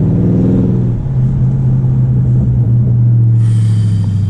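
Straight-piped 2019 Dodge Charger Scat Pack's 6.4-litre HEMI V8 exhaust droning, its pitch dropping in the first second and then settling to a steady low drone that sinks slowly. A thin high whine comes in about three and a half seconds in.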